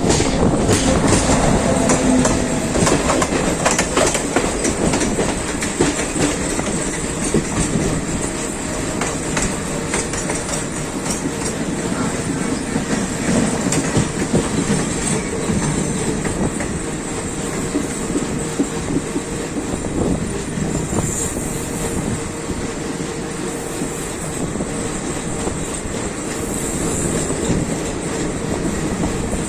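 Train running along the track, its wheels clicking over the rail joints over a continuous rumble, with a thin steady tone in the first half.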